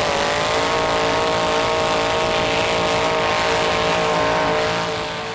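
LS V8 of a 1940 pickup rat rod held at high, steady revs during a burnout, the rear tyres spinning on the pavement. The engine note eases off slightly near the end.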